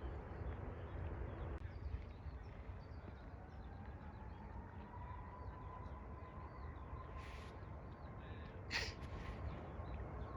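Quiet open-air ambience with a low rumble, faint bird chirps scattered throughout, and a faint, slightly rising whine of a distant jet engine coming in after a few seconds.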